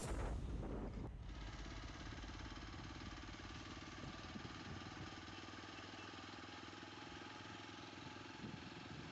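Motorcycle engine running steadily with an even, quick pulse, faint under a noisy haze, as background music fades out in the first second.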